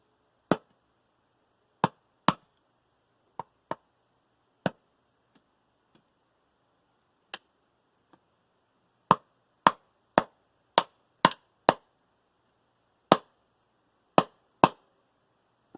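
Machete chopping small sticks of firewood: sharp single strikes at uneven gaps, then a quicker run of about six strikes, roughly two a second, past the middle.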